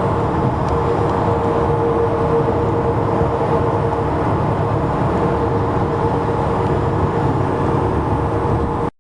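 Highway traffic: transport trucks driving past, a steady rumble of engines and tyres with a held hum that fades about two-thirds of the way through.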